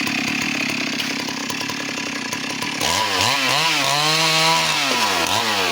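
Chainsaw cutting teak wood: the engine runs steadily under load for about three seconds, then revs up and down, holds high revs for a moment and drops back near the end.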